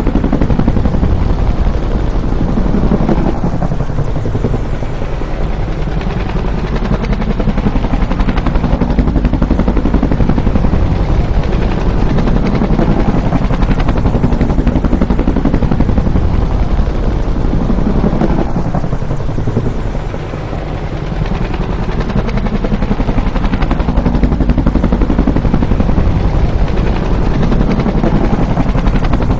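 Bell UH-1 Huey helicopter flying by, its main rotor beating in a fast steady thump over the engine noise. The sound eases off briefly about two-thirds through, then builds again.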